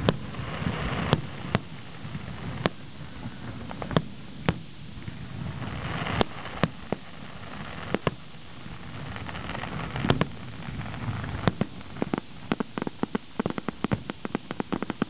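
Aerial fireworks display going off: single sharp booms every second or so with crackling between, then from about three-quarters of the way through a rapid string of many bangs as the show builds toward its finale.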